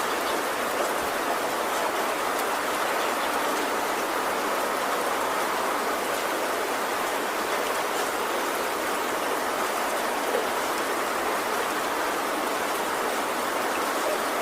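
Heavy rain falling steadily on a tin roof: an even hiss with scattered sharp drop ticks.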